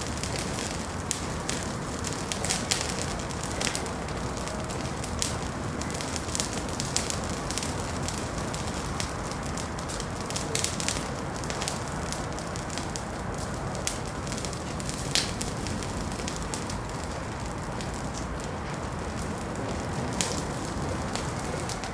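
Wood fire in a fireplace crackling: a steady bed of hiss and low rumble with frequent sharp, irregular pops and snaps.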